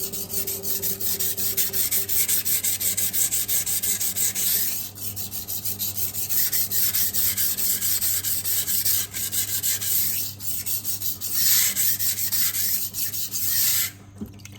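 Steel knife blade being stroked rapidly back and forth on a 400-grit sintered diamond sharpening stone: a steady gritty scraping that stops about a second before the end, once a burr is raised.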